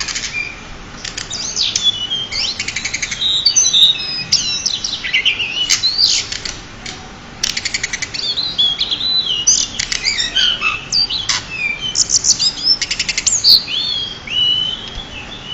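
Pied bushchat (decu) singing a continuous, varied song of quick high whistled and chirping notes, broken several times by fast rattling trills.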